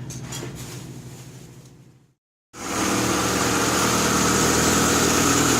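A quieter sound fades out into a short silent gap, then the rebuilt Honda B16A2 four-cylinder engine idles steadily, sounding real good now that its loose, flapping alternator belt has been tightened.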